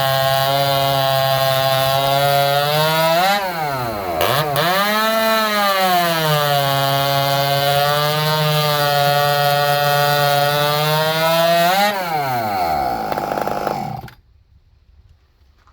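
Ported and piped 45cc two-stroke chainsaw running flat out with a high, steady note. About three seconds in the revs dip sharply and climb back. Near the end the revs fall away and the sound cuts off suddenly.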